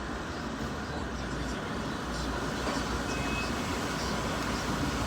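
Truck on the move: steady engine and road noise from inside the cab, rising slightly about two seconds in, with a brief faint high tone a little after three seconds.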